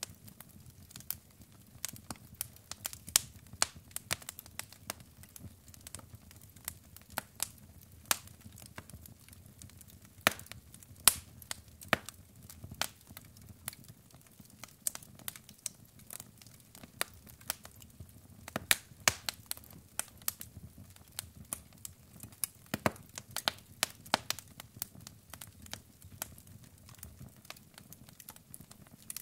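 Wood logs burning in a fireplace, crackling with irregular sharp pops and snaps over a low steady rumble of the flames.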